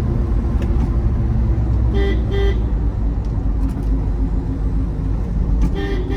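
Steady engine and road rumble inside the cabin of a 2005 Ford Endeavour 3.0-litre diesel under way. A car horn gives two short toots about two seconds in and another toot near the end.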